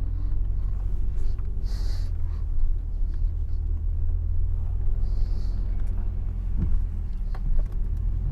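The V8 of a 1980 Mercedes-Benz 500 SE, its mufflers deleted, running under way with a steady low exhaust rumble.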